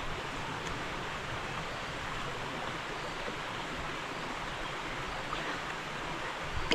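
Steady rushing ambient noise with no clear events, and a short click near the end.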